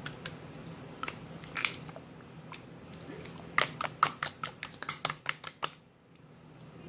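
Slime being squeezed and stretched by hand, making small sharp clicks and pops, thickest in a quick run in the second half.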